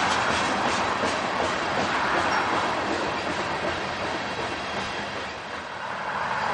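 Steady noise of a long train of loaded coal hopper cars rolling past: steel wheels running on the rails, dipping briefly about five seconds in.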